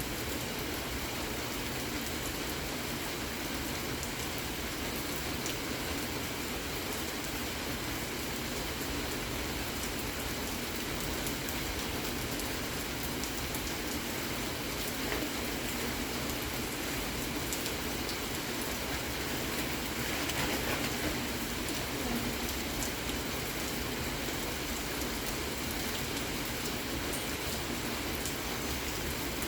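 Steady rain falling and pattering on surfaces, with scattered drops ticking through the even hiss; it swells a little about two-thirds of the way in.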